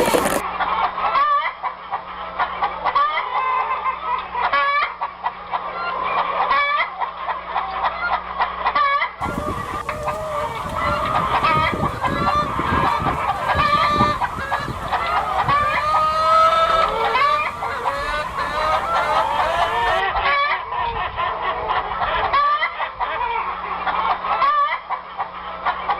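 Hens clucking, many short calls overlapping, across a few spliced recordings of a chicken flock.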